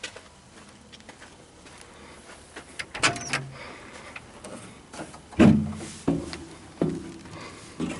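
A string of knocks and clunks after a quiet start, the loudest about five and a half seconds in, like something being handled or shut.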